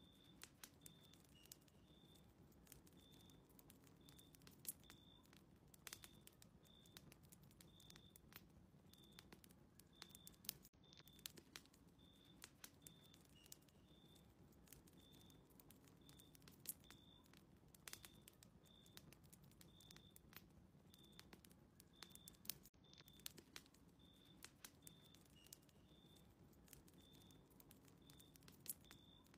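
Very faint fireplace crackling: scattered sharp pops over a low steady rumble, with a short high chirp repeating about once or twice a second.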